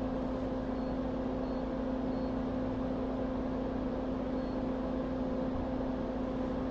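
Steady hum and hiss of running bench equipment, with a constant low tone, and a few very faint, short high-pitched pips.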